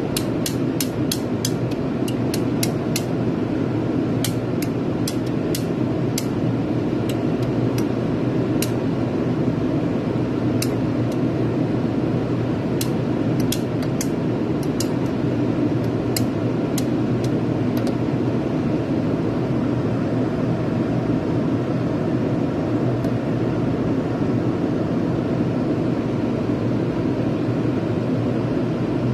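A steady low machine hum, with scattered sharp clicks or taps through roughly the first eighteen seconds that then stop.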